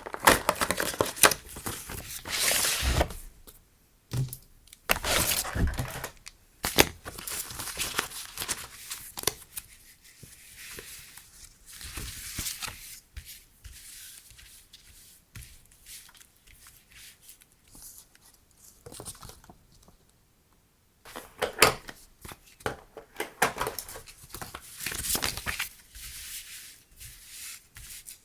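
Paper and plastic packaging being handled close up, crinkling, rustling and tearing in irregular bursts, with a quiet stretch in the middle.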